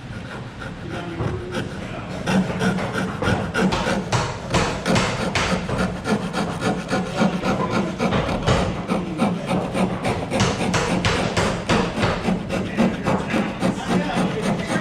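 Wood turning on a spring pole lathe: a turning tool scraping and cutting the wood in repeated strokes, about two a second, as the treadle and spring pole spin the work back and forth.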